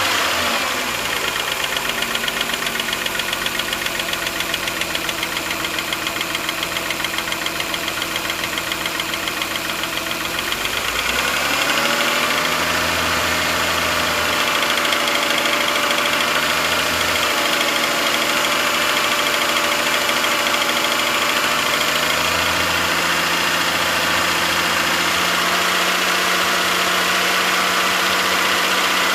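2006 Suzuki Verona's 2.5-litre inline-six engine running steadily. Its speed drops just after the start, then rises about eleven seconds in and holds at a higher steady speed.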